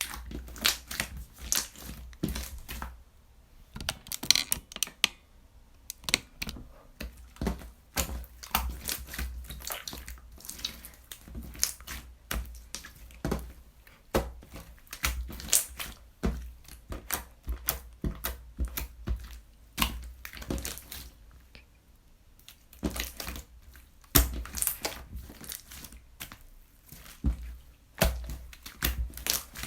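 Hand-played slime being pressed, folded and stretched, giving irregular sharp clicks and crackling pops.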